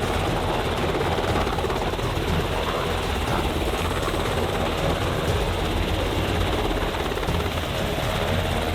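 Loud, steady engine noise with a rapid low throb, unbroken throughout.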